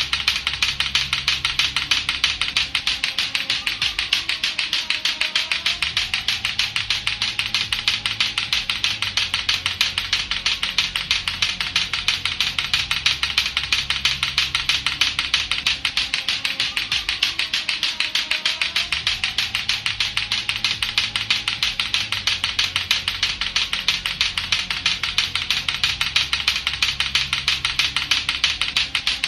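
Lato-lato clackers: two hard plastic balls on a string knocking together over and over in a fast, steady, even clicking rhythm.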